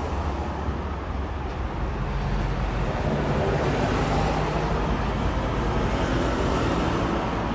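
Jet airliner passing close by on its landing approach: a steady roar with a low hum that swells to its loudest about halfway through, then eases off slightly.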